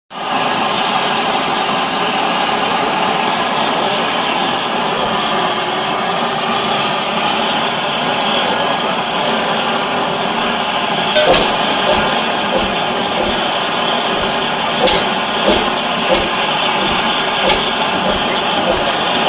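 Levahn two-stroke diesel engine, a 10-litre, 28 hp marine engine, running steadily, with a few sharp knocks standing out a little past the middle.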